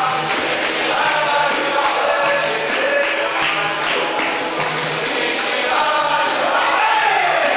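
Capoeira music: several voices singing together over a pandeiro (tambourine) jangle and steady percussion.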